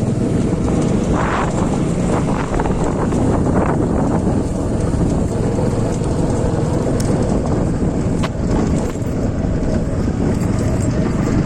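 Motorcycle running steadily as it is ridden over a rough off-road track, with wind rushing over the microphone and a few brief rattles.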